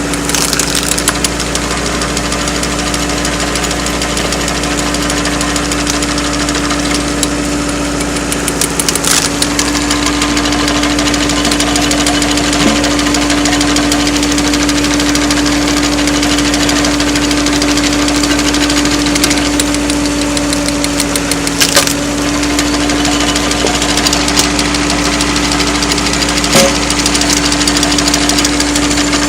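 Engine of a firewood-splitting machine running steadily, its note shifting slightly about nine seconds in and again a little past twenty seconds. A few sharp knocks break through.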